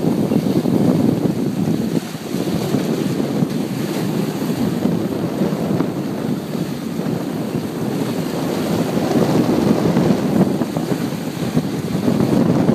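Steady gusting wind buffeting the microphone over the rush of water along a sailboat's hull while under way.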